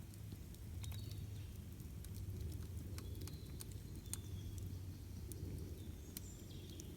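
Campfire crackling: irregular sharp pops and snaps of burning wood over a steady low rumble, with a few short high chirps.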